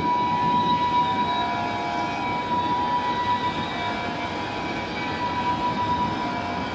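Train running with a low rumble under several steady high tones, the strongest a held ringing pitch.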